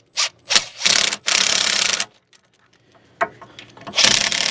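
Cordless power tool running nuts down the hub studs: two short blips, then a run of about a second, a pause, and another run starting near the end.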